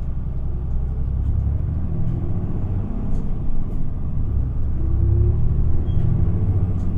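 Isuzu Erga city bus's diesel engine and drivetrain heard from inside the cabin, pulling away from a stop: a heavy low rumble that slowly grows louder as the bus gathers speed, with a faint whine rising about five seconds in.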